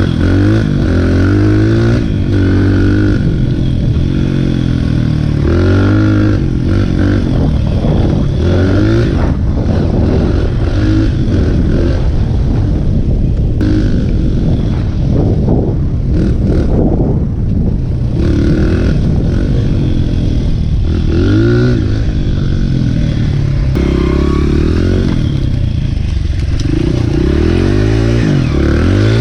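Dirt bike engine revving as it is ridden, its pitch rising and falling again and again through the throttle changes, loud and close.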